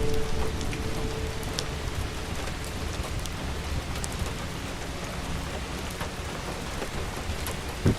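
Steady rain falling, with scattered drops ticking. A held music chord fades out in the first second.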